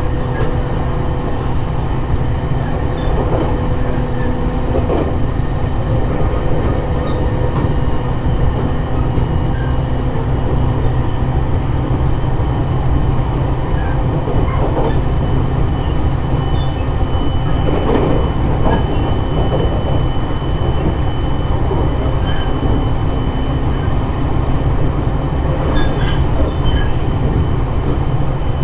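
JR East E721-series electric multiple unit running at speed, heard from inside the car: a steady rumble of wheels on rail with a steady hum, and a few scattered clicks from the rails.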